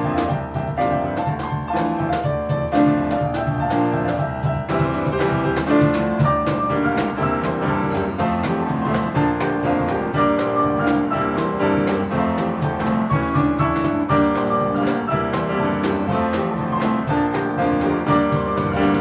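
Piano playing a fast, busy piece with percussion struck in a rapid, steady rhythm underneath.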